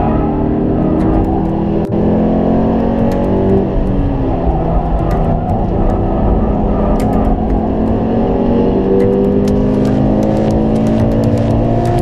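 Subaru BRZ's 2.0-litre flat-four engine heard from inside the cabin under hard acceleration: a quick gear change about two seconds in, then the revs climb steadily through the next gear.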